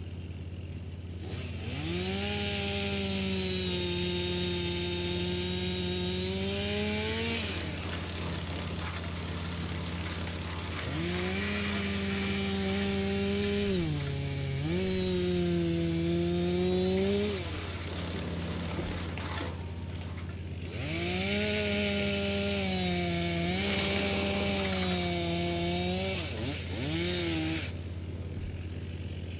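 Wood chipper running with a steady drone, chewing through wood three times. Each bout brings a loud chipping noise over a pitched whine that sags and recovers as the machine takes the load.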